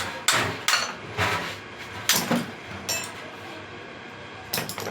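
Irregular metallic clinks and knocks, about half a dozen, from metal tools and engine parts being handled during a brush cutter engine repair, with a quieter gap before a last cluster near the end.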